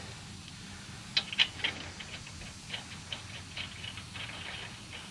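Light metallic clicks and ticks, irregular, a few a second and loudest just after a second in: lug nuts being handled and spun onto a truck's wheel studs by hand.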